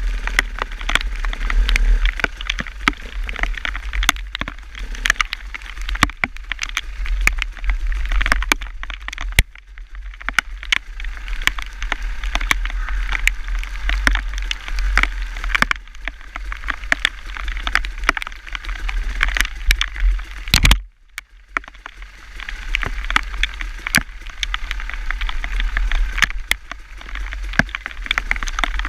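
Wind rumbling on the microphone while riding, with many sharp, irregular ticks throughout and a brief drop near the end.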